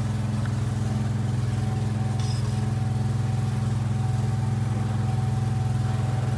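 Ford 7.8L diesel engine idling steadily, with an even, unchanging engine note.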